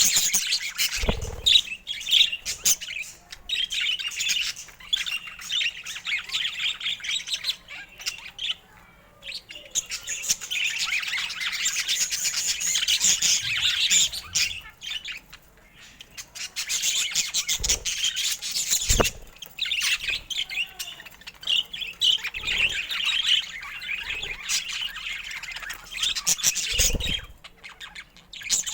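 Budgerigars chirping and warbling, fast chatter that comes in long stretches broken by short pauses. A few dull low thumps are heard now and then.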